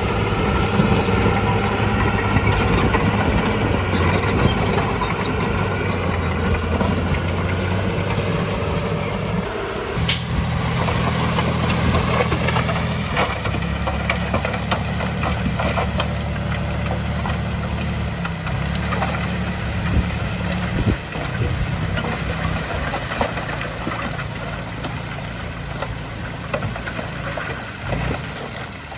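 Heavy diesel construction machinery running under load, a deep steady engine note whose pitch drops about ten seconds in and shifts again a few seconds later. Scattered metallic clanks and knocks sound over it, with a sharp one about ten seconds in.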